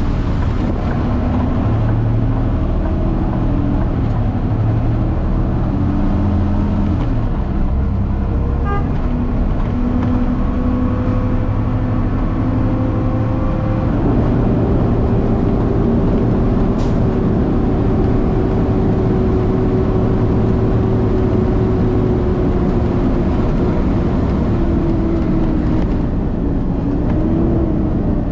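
Peterbilt truck's diesel engine running as the truck drives, its pitch shifting in steps through the first half, then holding steadier from about halfway, with a brief rise and fall near the end.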